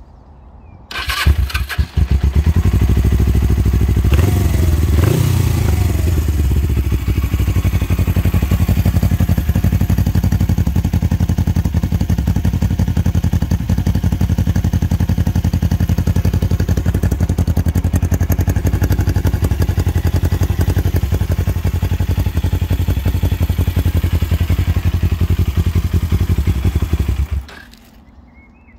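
Suzuki GS450S parallel-twin engine breathing through debaffled exhausts: it is started about a second in, revved up and down briefly, then idles steadily with a loud, deep exhaust note before being shut off suddenly near the end.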